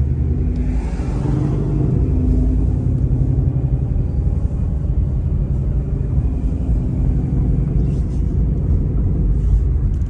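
Car engine idling steadily with a low exhaust rumble.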